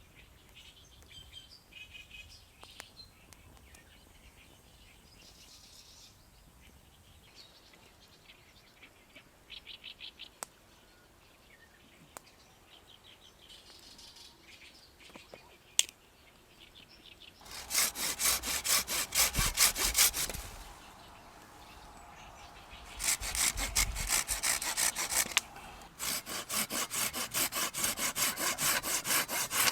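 Hand saw cutting through wood in quick, even strokes, in three spells with short pauses between; this is most likely the Silky BigBoy folding saw. Before the sawing, faint birdsong.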